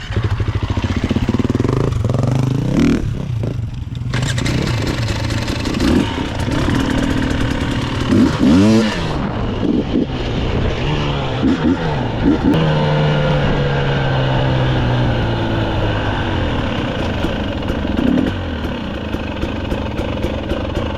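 Dirt bike engine revving hard, its pitch climbing and dropping repeatedly as the rider accelerates, shifts and backs off.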